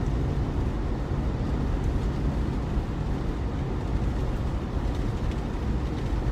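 Steady in-cabin drone of a vehicle driving at about 40 mph on a snow-covered road, tyre and engine noise mixed with the defroster fan blowing.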